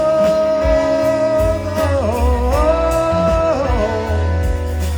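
Live rock band playing a slow ballad, with a long held melody note that slides down about two seconds in and is taken up again as a second held note, over bass and guitar.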